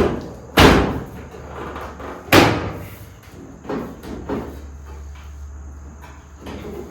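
Loud metal bangs on a car body during panel fitting: two heavy strikes about two seconds apart, each ringing briefly, then a couple of lighter knocks.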